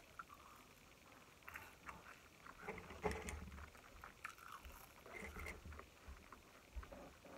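Faint chewing and small, irregular mouth clicks of a person eating close to the microphone.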